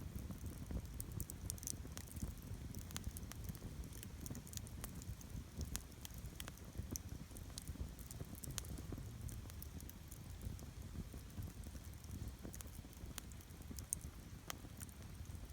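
Wood campfire crackling, with many irregular sharp pops and snaps over a low, steady rumble.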